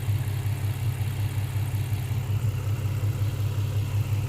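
The 2003 Infiniti G35's 3.5-litre V6 idling steadily and evenly at about 660 rpm, warmed up and running smoothly with all six cylinders firing.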